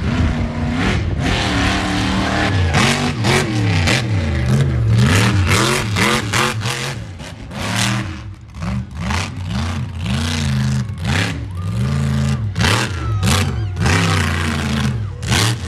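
Monster truck engine revving hard, its pitch climbing and falling again and again as the throttle is worked, a little quieter from about halfway.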